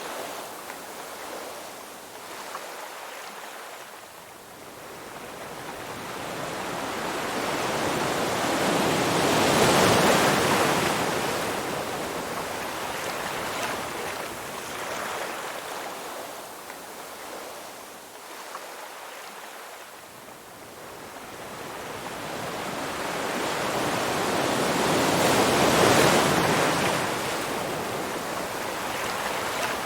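Ocean waves breaking on a shore: two slow swells of surf, each building to a peak, about ten seconds and again near twenty-six seconds in, then washing back.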